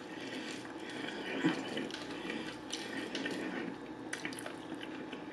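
Close-miked chewing of fried chicken: wet, smacking mouth sounds with many small clicks and crackles. Near the end the chicken is pulled apart by hand.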